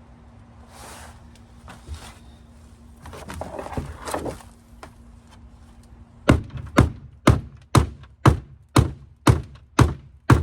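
A hammer striking the bent metal of a Dodge Dakota's crushed door: dull, evenly spaced blows, about two a second, starting a little past halfway, after a spell of scraping and handling noise.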